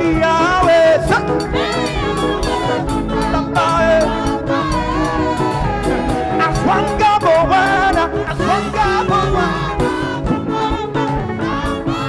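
Live praise band playing an upbeat song, with singing over it and a steady beat of percussion.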